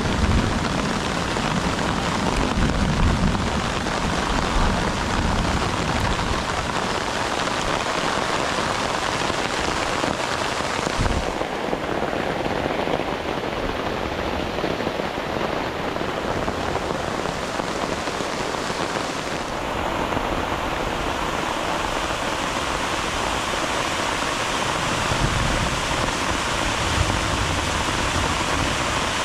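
Steady rushing noise of falling water. It changes abruptly twice, about 11 and 19 seconds in, turning duller and then brighter again.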